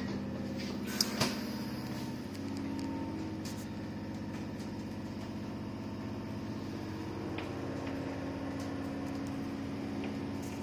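Piccadilly line tube train carriage interior while the train runs: a steady low hum and drone, with a couple of sharp knocks about a second in and a stronger hum setting in about two seconds in.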